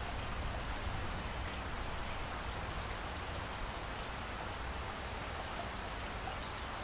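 Steady rainfall: an even hiss of rain with occasional faint individual drop ticks over a low rumble.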